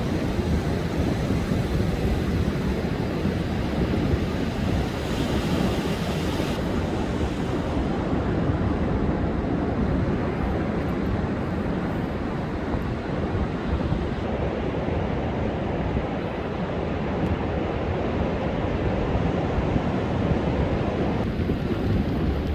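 Heavy surf breaking and washing continuously onto a sandy beach in rough, storm-driven seas, with wind rumbling on the microphone.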